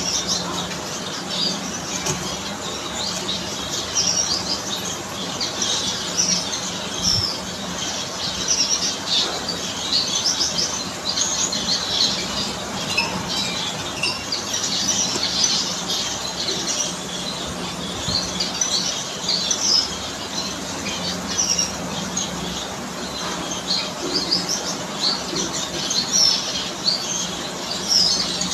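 Many finches chirping at once, short high calls overlapping without pause, over a steady low hum.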